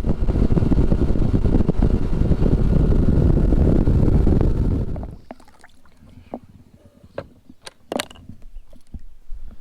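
Bass boat motor running under way, with heavy wind buffeting on the microphone. About halfway through it stops abruptly, leaving quiet with a few sharp clicks and taps.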